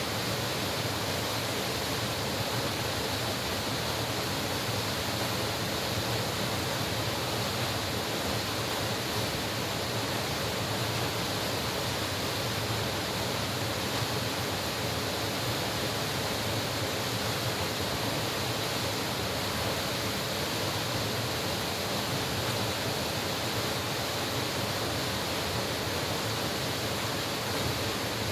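Mountain valley stream rushing over rocks, a steady, even sound of running water.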